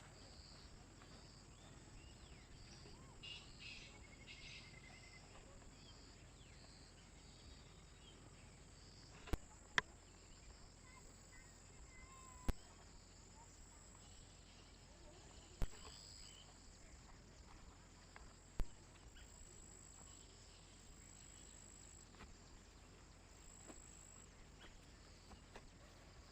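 Faint forest ambience: a steady high insect drone with a few short chirps early on. Five sharp, isolated clicks stand out, spaced a few seconds apart through the middle of the stretch.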